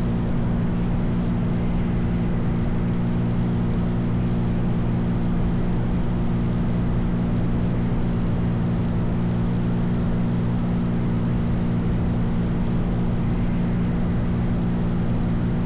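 Cessna 182's piston engine and propeller droning steadily in flight, an even low hum that does not change.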